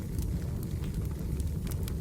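Wood fire burning: a steady low rumble of flames with scattered, irregular sharp crackles and pops from the logs.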